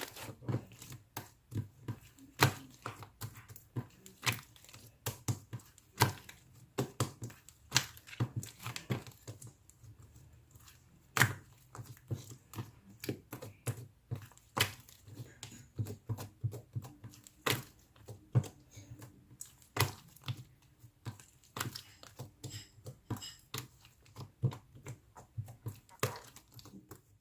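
Slime being squeezed and pressed by hand, giving many irregular sharp pops and clicks, several a second.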